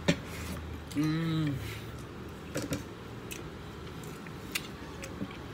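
A man chewing a mouthful of rice and meat eaten by hand, with a few sharp smacks and a short hummed "mmm" about a second in.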